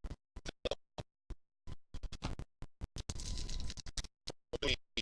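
Badly broken audio: short snippets of sound cut in and out several times a second with dead silence between them. About three seconds in comes a longer stretch of scratchy noise lasting under a second.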